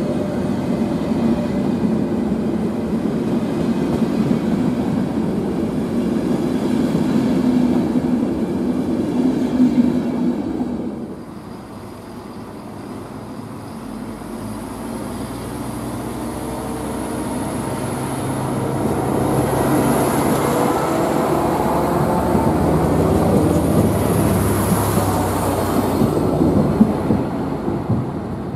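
ÖBB double-deck passenger coaches rolling past on the rails, with steady wheel and running noise, until the sound breaks off about a third of the way in. Then a two-car ÖBB class 5022 Siemens Desiro diesel railcar pulls away and passes close by. Its diesel engine grows steadily louder with a rising note, then fades near the end.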